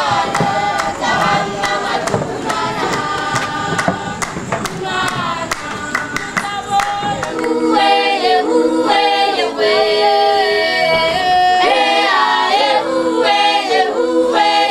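Music: a choir singing held notes together, the voices growing fuller about halfway through.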